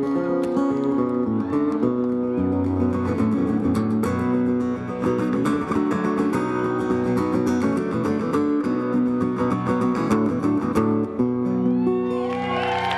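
Country band playing an instrumental passage live, with fast picked string notes over a steady bass. In the last second the audience starts whistling and cheering as the piece ends.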